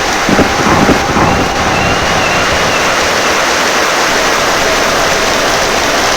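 Heavy rain pouring steadily, with a short low rumble of thunder about half a second in.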